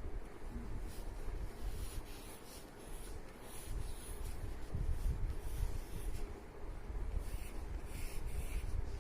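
A drawing tool scratching on paper as leaves are drawn: a run of short, repeated strokes.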